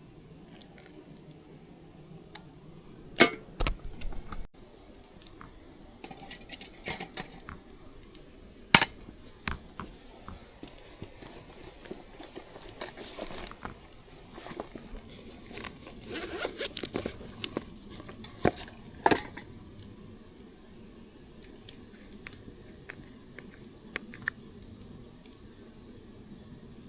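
Scattered clicks, knocks and rustling of objects being handled, with sharp knocks about 3, 9 and 19 seconds in.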